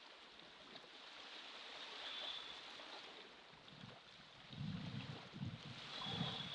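Ocean waves washing faintly, a soft steady hiss of surf, with a low rumbling surge about two-thirds of the way through.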